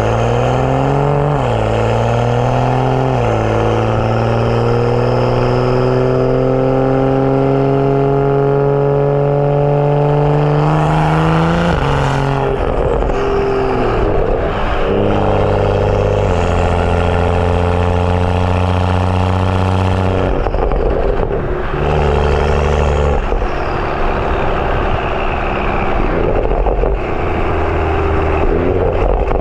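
BMW F30 335i's turbocharged N55 straight-six, breathing through a catless downpipe and M Performance exhaust, pulling hard through the gears. The engine pitch climbs with quick upshifts about one and a half and three seconds in, then makes a long rising pull until about eleven seconds before lifting off. After that it runs at lower, changing engine speeds with further shifts.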